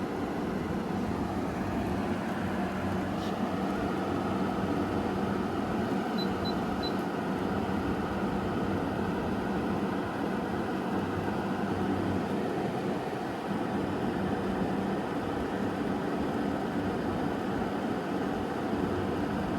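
Frigidaire window air conditioner (model FHWW082WCE, 8000 BTU) running steadily in cool mode, its fan and compressor making an even drone with a low hum. Three short faint high beeps about six seconds in.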